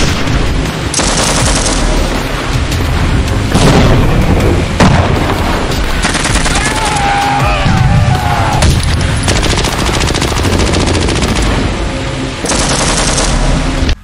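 Rapid automatic gunfire sound effects in dense, continuous bursts, far louder than foam-dart blasters, with music underneath. It cuts off suddenly at the end.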